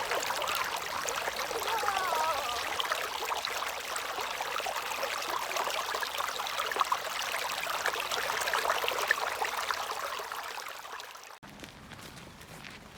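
Creek water running steadily over rocks, a continuous babbling rush that cuts off suddenly near the end.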